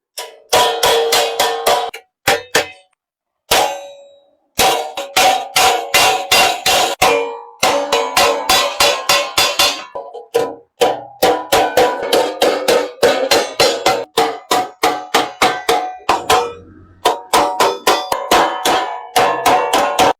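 Hammer striking metal on an anvil in a blacksmith's forge: rapid ringing blows, about four a second, in runs with a few short breaks.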